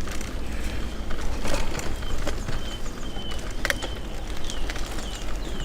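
A bird calling in a run of short, repeated whistled notes, some sliding down in pitch, a call that sounds like a car alarm. Under it are a steady low rumble and a couple of sharp knocks.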